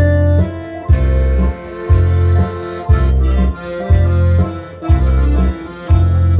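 Live traditional folk dance music: a melody line over a heavy bass beat that strikes about once a second.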